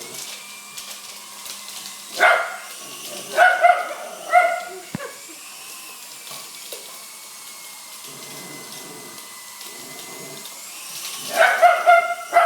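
Italian greyhound barking in sharp, high-pitched barks: one at about two seconds in, a few more soon after, then a quick burst of barks near the end.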